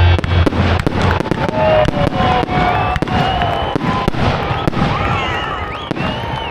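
Fireworks display: rapid bangs and crackling bursts, with a music track cutting out about a second in and rising and falling whistles joining from about two seconds in.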